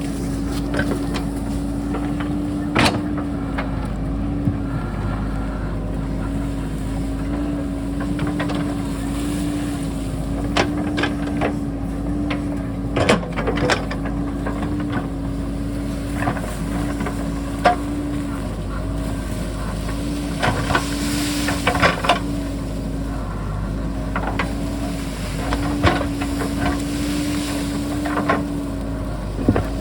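JCB backhoe's diesel engine running steadily under load, with scattered knocks and clanks as the bucket works through rock.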